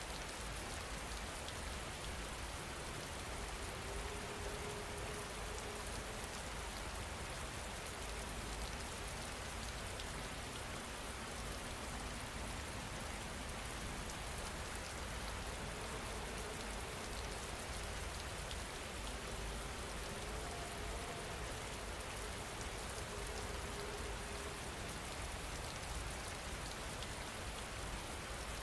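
Steady rain falling, an even continuous hiss of drops on a surface.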